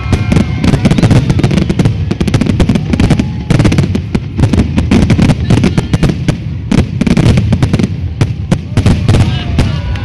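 Fireworks finale: a dense, unbroken barrage of bangs and booms from shells bursting in rapid succession, over a heavy low rumble.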